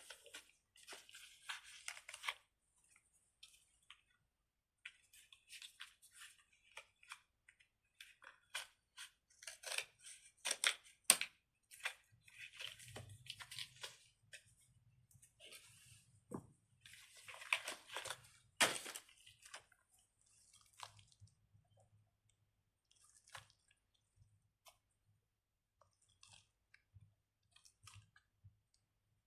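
A squishy stress-ball fidget toy being squeezed and kneaded by hand, giving faint, irregular clusters of crunching crackles.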